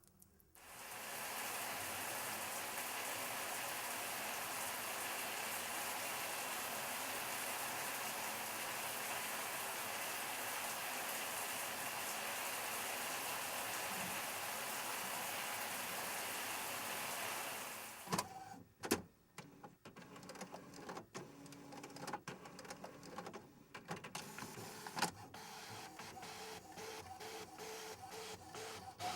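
A steady, even hiss that stops suddenly about 17 seconds in, followed by irregular clicks and knocks and the short repeating whir of a small machine.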